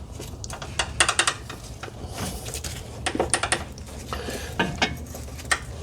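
Irregular metallic clinks and knocks of hand tools against steel suspension parts while working on a stuck control-arm bolt.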